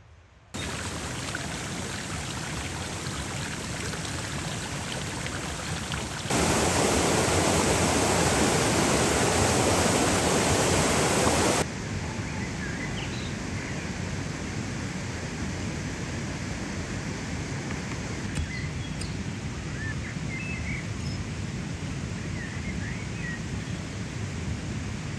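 Outdoor ambience: a steady rushing noise, much louder for a stretch in the middle, with every change cut off abruptly. Faint bird chirps come through in the second half.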